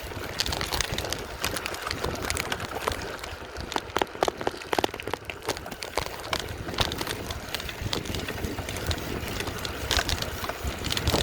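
Wind rushing over the microphone while riding a bicycle at speed, with frequent short clicks and rattles.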